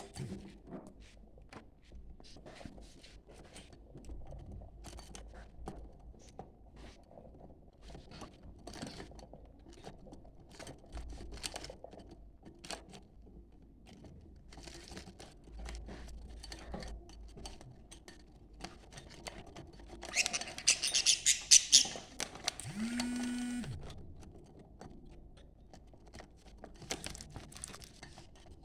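Budgerigars chattering: scattered soft clicks and short chirps, with a louder burst of high warbling about two-thirds of the way in. A brief lower-pitched call follows the burst.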